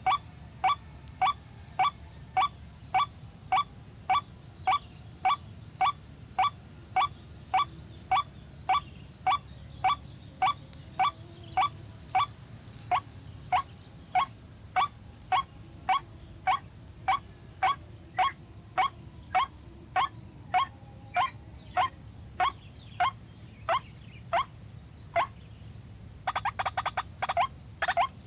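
White-breasted waterhen (ruak-ruak) calling: a short pitched note repeated at a very even pace, about two a second. Near the end it breaks into a quick flurry of rapid notes.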